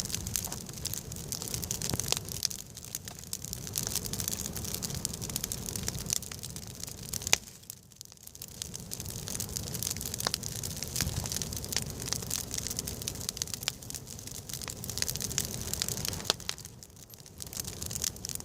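Wood campfire burning, crackling with many irregular sharp pops over a steady hiss; the sound drops away briefly about eight seconds in.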